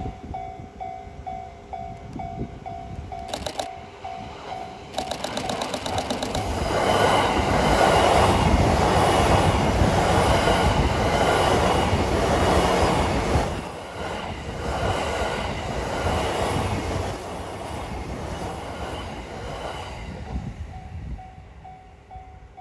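A train passing close by on the rails, with wheel clatter over the rail joints. It builds to its loudest about seven seconds in, holds for several seconds, then dies away. A bell rings in a steady repeating beat before the train arrives and again near the end.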